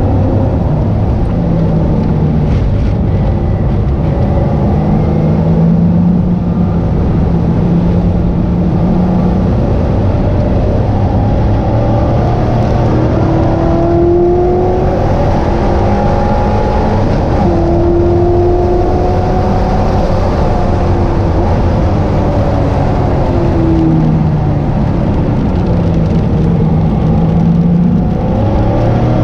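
Engine of a 430 hp SN95 Ford Mustang heard from inside the cabin, revving up and down as it is driven hard around the track. Its pitch climbs and falls repeatedly, most clearly through the middle stretch.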